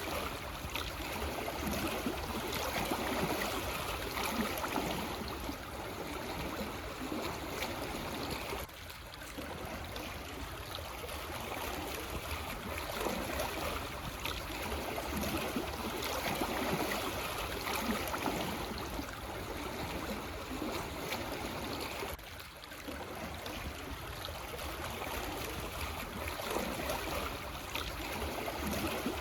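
Small calm waves lapping and washing over black stones on a shore: a continuous rushing, gurgling wash that swells and eases in irregular surges.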